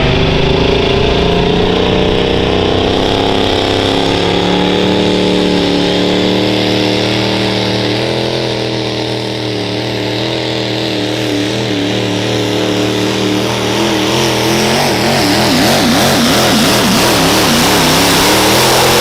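Diesel pickup truck engine at full throttle pulling a weight-transfer sled, its note steady and sagging slowly in pitch as the load builds. In the last few seconds the pitch wavers quickly up and down, then the sound cuts off suddenly as the run ends.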